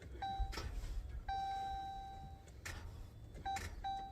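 Car's dashboard warning chime beeping as the ignition is switched on: a short beep, one long tone, then quick repeated beeps near the end, with a couple of faint clicks and no engine cranking. The battery is still too weak to start the car.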